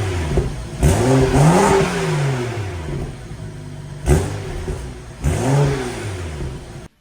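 BMW 335i's turbocharged 3.0-litre inline-six (N55), with the catalytic converter removed and the stock mufflers still fitted, revved from idle in throttle blips. There is a long rev about a second in, a short sharp blip near four seconds and another rev just after five seconds, and the sound cuts off suddenly near the end.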